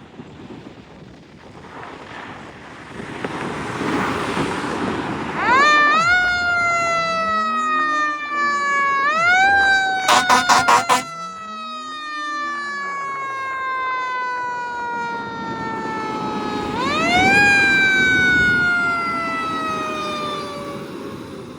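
A fire truck's siren winds up sharply and then falls slowly in long wails, three times, as the truck approaches and passes. About halfway through comes a quick run of about five short horn blasts, and vehicle noise swells as the truck goes by.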